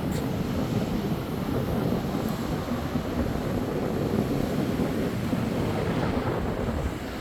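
Strong wind buffeting the microphone over ocean surf breaking and washing ashore.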